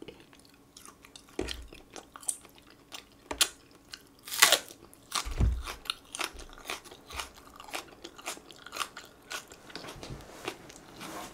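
Close-miked crunchy chewing and biting of fried chicken with raw green onion dipped in ketchup: irregular crunches throughout, the loudest about four and a half seconds in.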